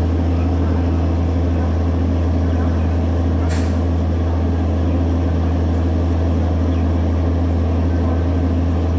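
Steady low engine drone from a train standing at the platform, with one short burst of hissing air about three and a half seconds in.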